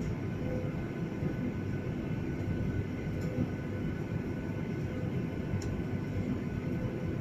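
Steady rumble inside an airliner cabin from the jet engines and cabin air system, with a few faint steady tones above it.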